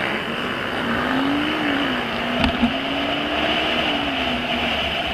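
Motorcycle engine running with a gently rising and falling pitch over road and wind noise, with two sharp knocks in quick succession about halfway through.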